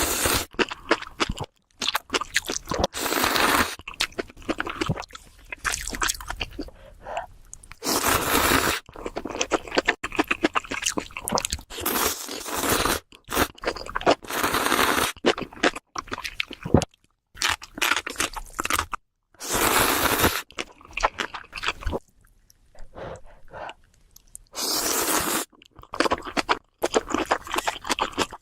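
Close-miked crunchy food being bitten and chewed: irregular crisp crunches, with several denser bursts of loud crunching lasting about a second each and short pauses between.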